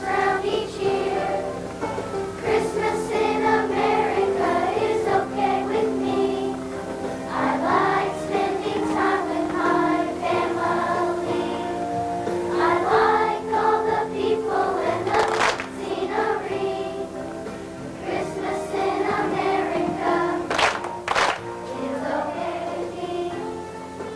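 Children's choir singing an easygoing country-style Christmas song over instrumental accompaniment.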